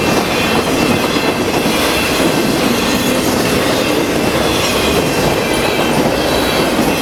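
Intermodal freight cars carrying highway trailers rolling past at speed: loud, steady noise of steel wheels on rail that holds level throughout.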